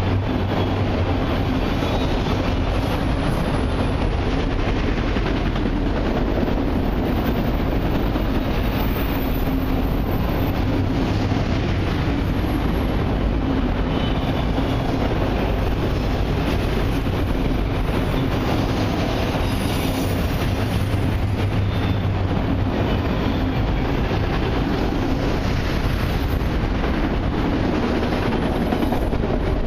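Cars of a long intermodal and autorack freight train rolling past at steady speed: a continuous rumble and rattle of steel wheels on rail.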